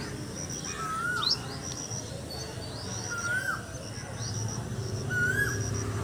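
A small songbird repeats the same short call, a note that rises and falls, roughly every two seconds. Fainter high chirps and ticks come from other birds or insects, over a low background rumble.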